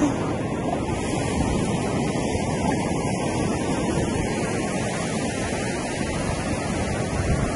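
Steady rush of wind on the microphone mixed with surf washing on the beach.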